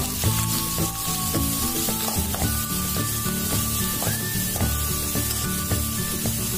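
Sliced onions, green chillies and curry leaves sizzling in hot oil in a stainless steel kadai, with a steel ladle scraping and stirring them against the pan; music plays underneath.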